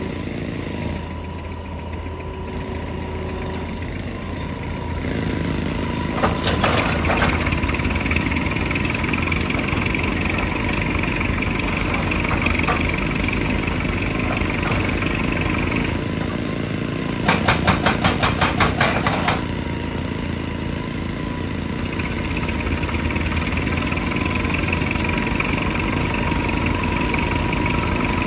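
JCB excavator's diesel engine running steadily under work, with a few knocks early on. About two-thirds of the way in comes a two-second burst of rapid hammering blows, about five a second, typical of a hydraulic rock breaker striking rock.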